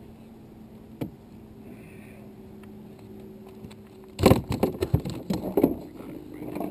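A steady low hum, then about four seconds in a burst of loud clattering knocks lasting under two seconds, like gear or a fish knocking about on a kayak's plastic deck.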